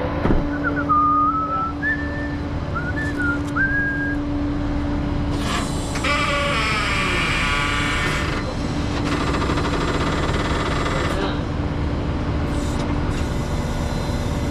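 Truck engine running steadily. A few short whistling squeaks come in the first few seconds, and a hiss of about three seconds comes near the middle, followed by a fainter, shorter one.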